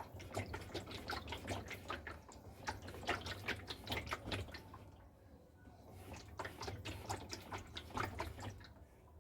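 Water splashing and dripping inside a Samsung top-load washing machine's tub during an Eco Tub Clean cycle: a quick, irregular run of splashes that eases off about five seconds in and picks up again, over a low steady hum.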